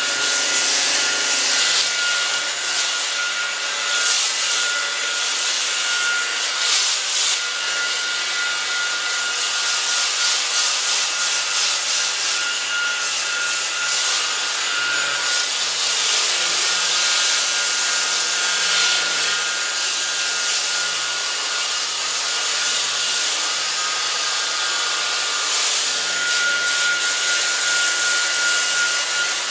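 A sanding disc on a power tool grinding old paint and rust off a steel mower deck: a steady abrasive hiss over the motor's whine, which fades in the middle and comes back strongly near the end.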